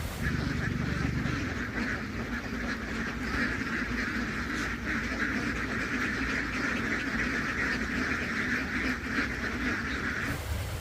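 A large flock of ducks quacking all at once in a dense, steady chorus that cuts off shortly before the end.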